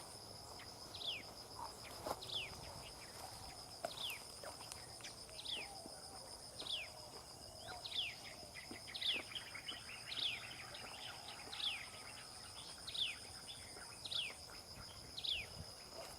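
A bird repeating a short, high, downward-sliding note about once a second, over a steady high-pitched insect drone.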